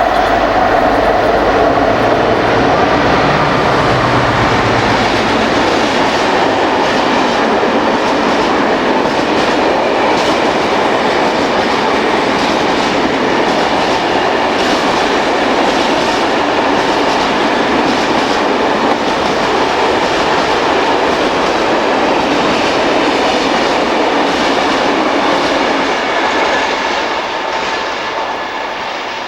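Freight train passing on the rails, most likely behind a Brush Class 60 diesel locomotive with its Mirrlees engine running low in the first few seconds. A long rake of wagons then rolls by steadily, fading away near the end.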